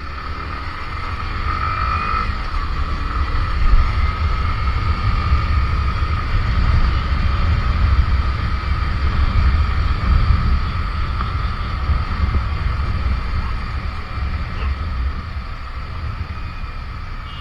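Wind buffeting the microphone on a moving Yamaha R15 motorcycle, a steady low rush over the engine and road noise, growing louder in the first few seconds.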